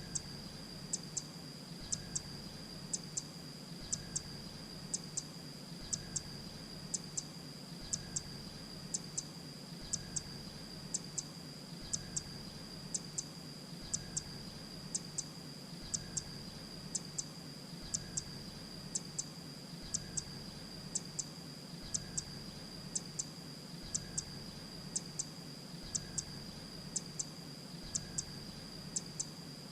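Grey-breasted prinia calling: a short, sharp, high double note repeated evenly about once a second, over a steady high-pitched whine.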